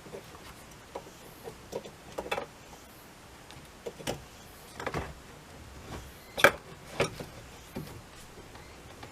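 Irregular plastic clicks and knocks of dashboard parts and tools being handled, about a dozen short ones, the loudest about six and a half seconds in.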